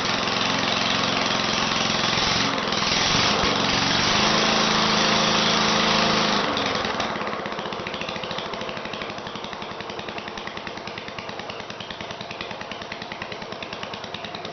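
1970s Briggs & Stratton 3.5 hp single-cylinder lawnmower engine running cold with no exhaust pipe fitted, so it has no back pressure. It runs fast and loud, then about halfway through drops to a low idle with evenly spaced firing pops.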